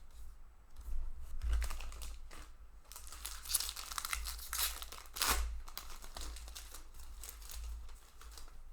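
Foil wrapper of a Magic: The Gathering booster pack crinkling and tearing open, with irregular rustling bursts as the pack is handled.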